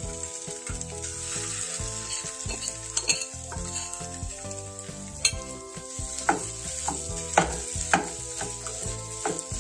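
Tomato paste frying with a steady sizzle in a saucepan while mashed potato is tipped in and stirred with a wooden spatula. About halfway through, the spatula starts knocking and scraping against the pan several times.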